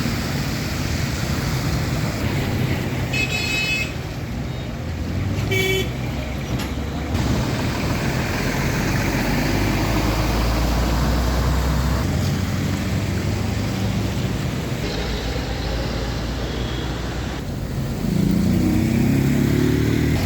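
Street traffic with vehicle engines running. Short high-pitched horn toots come about three and about six seconds in, and near the end an engine rises in pitch as it speeds up.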